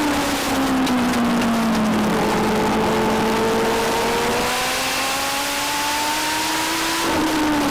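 Legend race car's Yamaha motorcycle engine at racing speed: the engine note falls as it lifts into a turn, then climbs steadily for about five seconds under full throttle, and drops again near the end as it lifts for the next turn.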